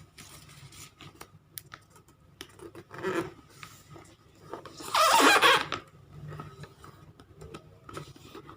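A sheet of origami paper being folded and creased, with crinkling and rubbing rustles. The loudest rustle comes about five seconds in, a smaller one about three seconds in, and light paper clicks in between.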